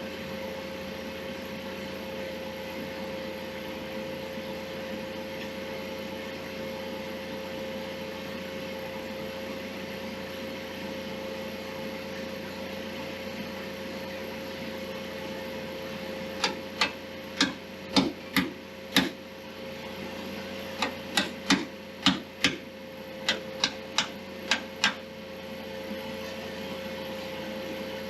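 A steady workshop hum with one constant tone, then, about halfway through, two runs of sharp knocks, roughly fifteen in all at about two a second, as work goes on during an engine removal.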